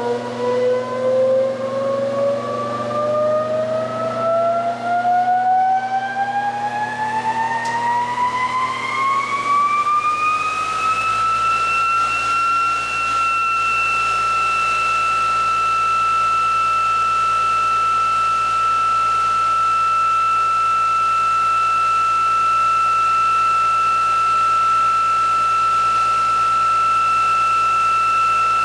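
Electric motor test rig spinning up: its whine rises steadily in pitch for about the first eleven seconds as the system accelerates, then levels off into a steady high whine once the speed settles.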